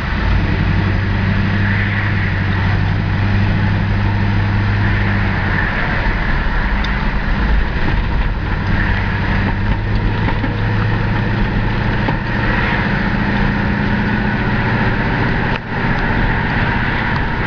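1970 Chevelle SS V8 running as the car drives in traffic, heard from inside the car: a steady low engine drone that swells and eases a little. It drops off briefly near the end.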